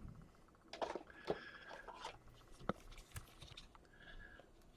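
Trading cards and their packaging being handled: faint rustles and a few light clicks.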